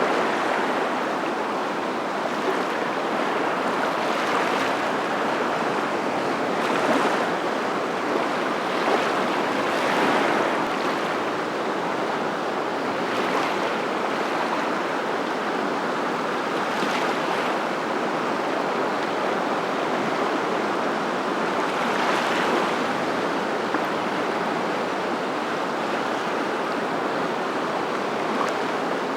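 Steady rushing water noise that swells and eases every few seconds, like surf.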